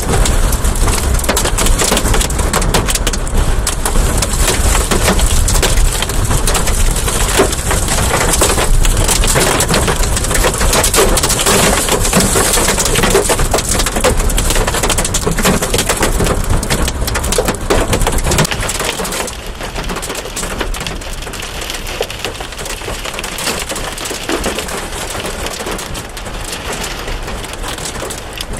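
Heavy rain and hail from a severe storm pelting hard surfaces in a dense crackling rush, with wind buffeting the microphone. About two-thirds of the way through, the downpour and wind ease and it grows quieter.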